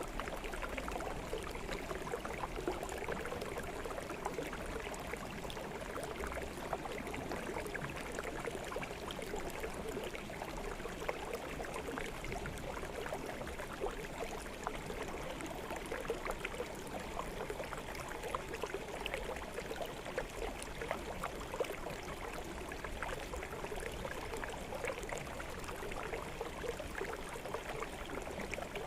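Small forest stream flowing steadily over stones, a continuous babbling and gurgling of water.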